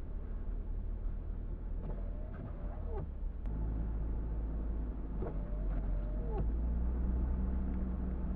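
Car cabin noise while driving: a steady low road and engine rumble, with two squeaks about three seconds apart from the windshield wipers sweeping the glass in the snow. Each squeak is a held tone that drops in pitch at its end.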